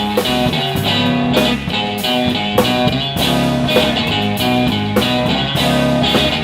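Live blues band playing an instrumental passage: guitar over bass guitar and drum kit, with a steady beat.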